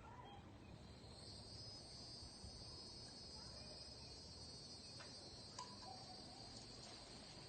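Faint, steady, high-pitched insect trilling that swells about a second in and holds. A couple of faint clicks and small chirps come past the middle.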